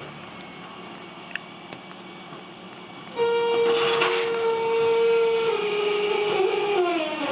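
Refuse truck's mechanism creaking: about three seconds in, a loud, steady high squeal starts, holds for a couple of seconds, then slides down in pitch near the end.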